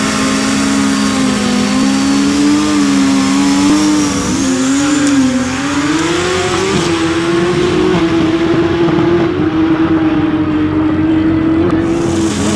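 Drag-racing motorcycle engine running at a fast idle, its pitch wavering up and down with small throttle changes around the middle before settling slightly higher.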